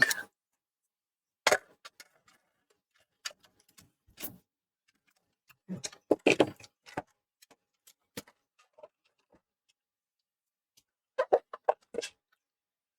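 Scattered clicks and knocks of parts being handled and fitted as the hard drive goes back into a PS4 Slim, with a quick run of clicks about six seconds in and another near the end.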